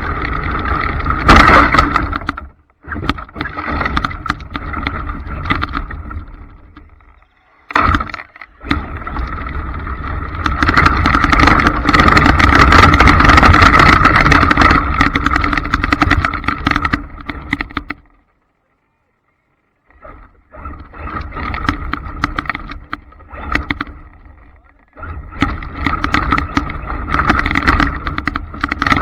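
Radio-controlled trucks running, a steady whine over rough noise that swells and fades, broken several times by abrupt silent gaps.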